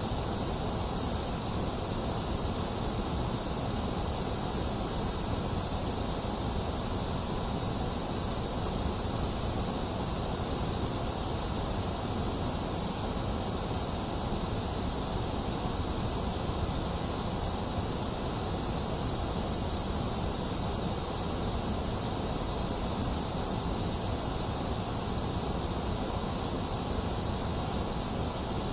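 A box fan running steadily, mixed with steady rain: an even, unchanging rush with a low hum and a bright hiss on top.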